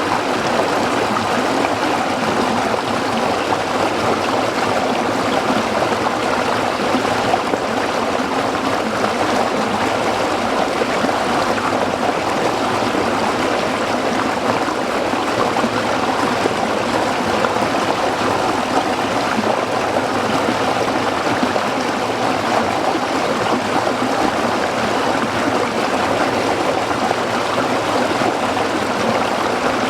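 Shallow stream of water flowing and burbling over rocks, a steady rushing with no breaks.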